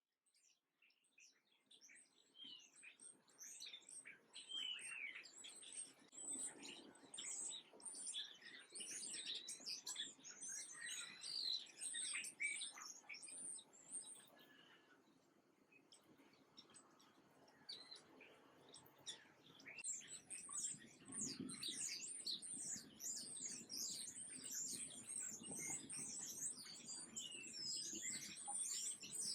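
Many small birds chirping and twittering at once, a dense, high-pitched chorus. It fades in at the start, thins out around the middle, then comes back thick.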